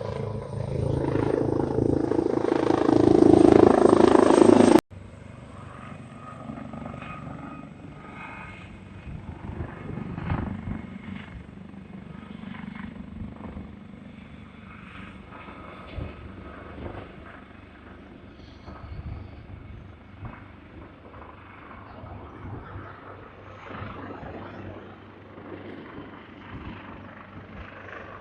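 Aircraft engine roar growing louder as a plane passes close, cut off suddenly about five seconds in. After the cut comes a much quieter, steady distant aircraft rumble.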